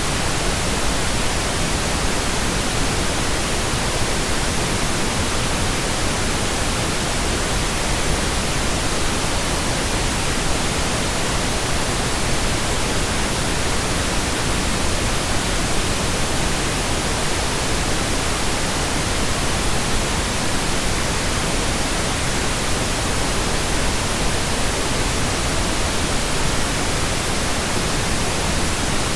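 Steady computer-generated pink noise: an even, unchanging hiss across the whole range, with no tones or events.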